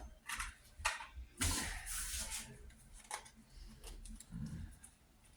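Playing cards being sorted and laid down by hand: scattered soft slaps and clicks, with a longer rustle of cards about a second and a half in.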